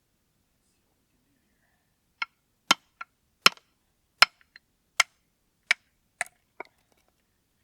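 Firewood being chopped: about nine sharp strikes, a little under a second apart, beginning about two seconds in.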